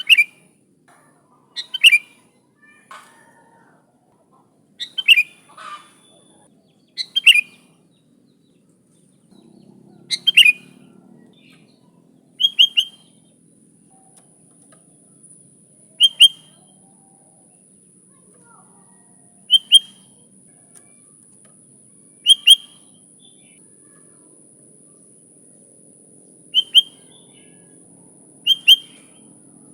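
Sooty-headed bulbul (kutilang) giving short, sharp calls, one every two to four seconds, each a quick downward-sliding note, some with a brief lead-in note. A faint steady high-pitched tone comes in partway through.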